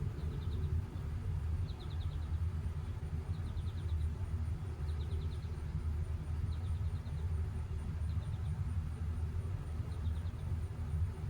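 A bird repeating a short, quick trilled call about every second and a half, over a steady low rumble.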